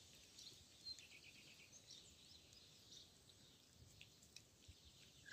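Near silence: faint outdoor ambience with scattered faint, short, high bird chirps.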